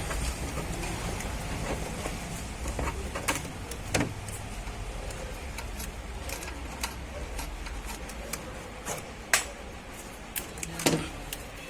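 Hand tools working on the engine's timing chain tensioner mounting: scattered sharp metallic clicks and taps, with the loudest knocks about nine and eleven seconds in.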